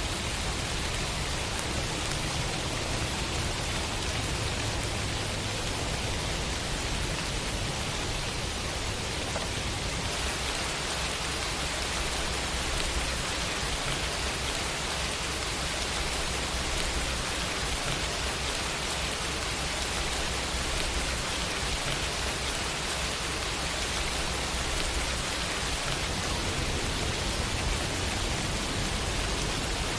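Steady rain falling, an even hiss with no let-up, over a low rumble that eases about a third of the way in and comes back near the end.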